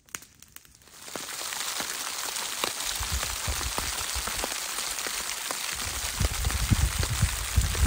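Rain pattering on a Dyneema fiber tarp: a steady hiss with scattered light ticks of drops, starting about a second in. Low rumbling bumps come and go from about three seconds in.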